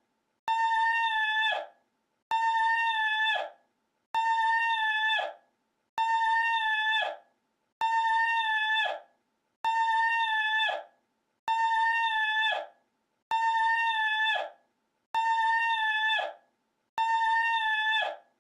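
The same short call, looped over and over: about a second of one steady, high pitch with a quick downward drop at its end, repeated identically ten times, about one every two seconds, with silence in between.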